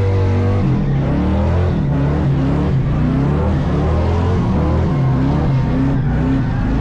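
Burnout truck's engine revving hard and repeatedly, its pitch climbing and dropping again and again.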